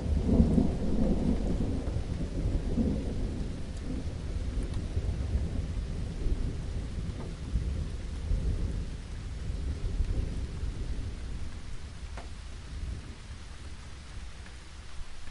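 Thunder rumbling over steady rain; the rumble is strongest in the first few seconds and fades away, leaving the rain falling with a few scattered drips.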